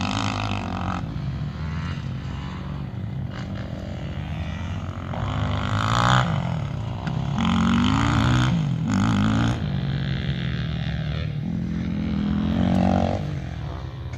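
Yamaha YFZ450R's single-cylinder four-stroke engine through a Two Brothers aftermarket exhaust, running at a low steady speed and blipped up several times, the loudest rev about six seconds in.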